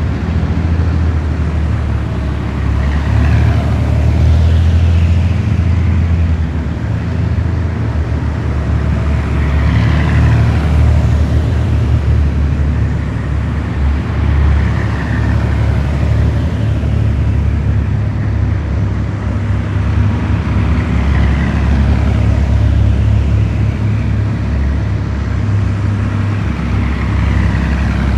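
A column of heavy military vehicles driving past one after another, their diesel engines giving a loud, continuous low rumble. Each vehicle going by adds a whine that falls in pitch, about every five or six seconds.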